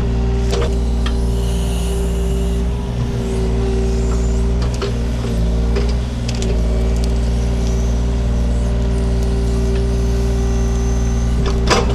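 Takeuchi TB230 mini excavator's diesel engine running steadily under digging load, with a steady whine over it. Scattered clanks and knocks come from the bucket working the ground, the loudest near the end.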